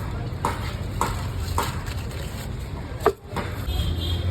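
Jhaalmuri being prepared: short knocks of a utensil, about two a second, with a sharper knock about three seconds in. A steady low hum of street traffic runs beneath.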